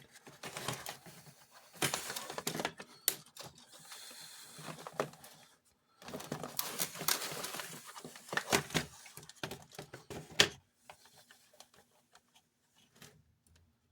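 Plastic toy parts clicking and rattling as they are handled and fitted together, with irregular sharp taps that die down about ten seconds in.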